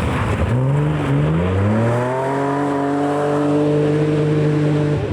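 Rally car engine pulling hard, its note rising for about two seconds and then holding steady at high revs, with a brief break right at the end.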